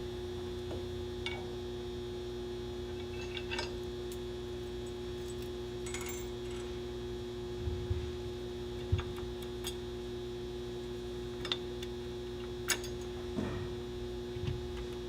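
Scattered light metallic clicks and knocks of hand tools and bracket hardware, about nine over the stretch and louder around the middle and near the end, over a steady electrical hum.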